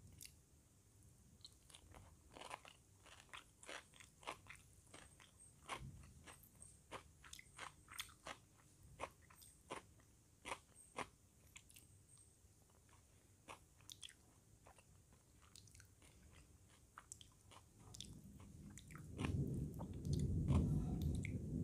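A person chewing crisp fried food close to the microphone: many sharp, irregular crunches in the first half, thinning out later. Near the end a louder, muffled low-pitched noise comes in.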